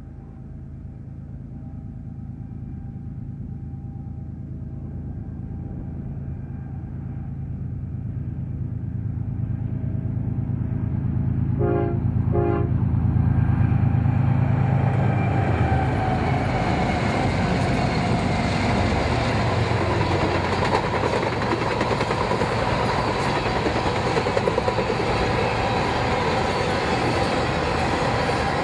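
A train approaching with its locomotive engines droning louder, sounding two short horn blasts about twelve seconds in, then passing close by with a steady rumble of wheels on the rails.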